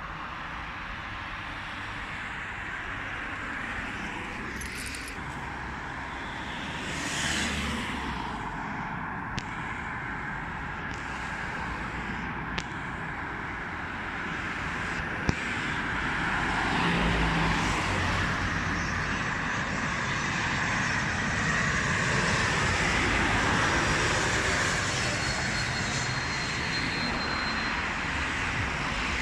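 Jet airliner engines at an airport, their noise swelling in the second half and peaking a few seconds before the end, with a faint high turbine whine on top. A few sharp clicks come before the swell.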